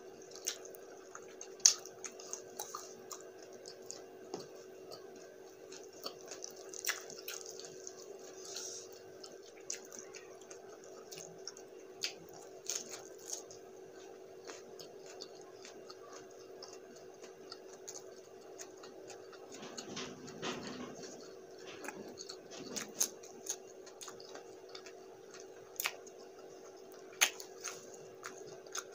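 A person chewing buffalo wing meat close to the microphone: scattered wet mouth clicks and smacks over a steady low hum.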